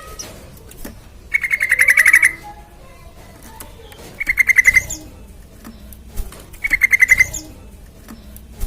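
Yellow-vented bulbul (trucukan) calling in three loud bursts of rapid, evenly repeated chattering notes, a few seconds apart.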